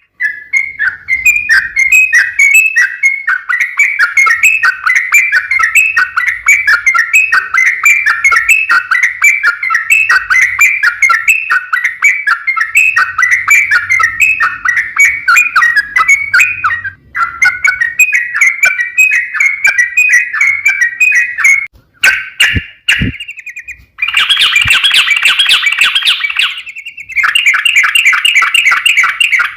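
Yellow-vented bulbul (trucukan) singing a long, rapid run of chirping, rolling notes. It goes almost without pause, with brief breaks and a denser, harsher stretch late on.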